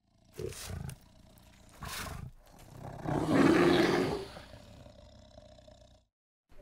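A bear growling: two short, rough growls, then a longer, louder one about three seconds in that trails away.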